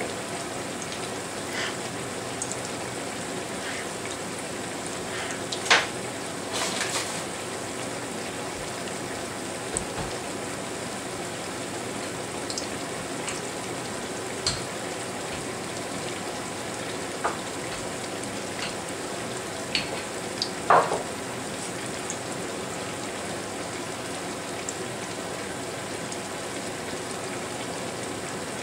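Fleischkrapfen frying in hot fat: a steady sizzle, with a few short clinks and knocks, the loudest about six seconds in and again about twenty-one seconds in.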